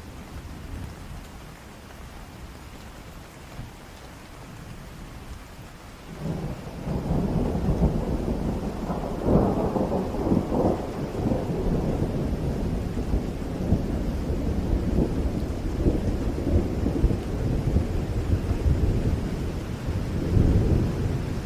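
Steady rain, then about six seconds in a thunderclap breaks into a long rolling rumble, loudest a few seconds later with sharper cracks, swelling again near the end.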